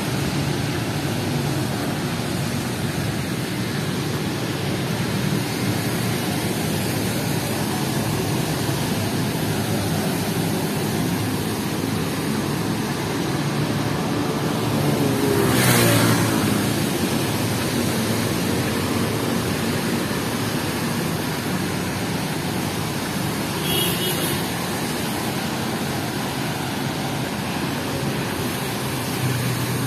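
Steady hiss of rain and wet surroundings. About halfway through, a vehicle passes close by on the wet road: the sound swells and its pitch drops as it goes past.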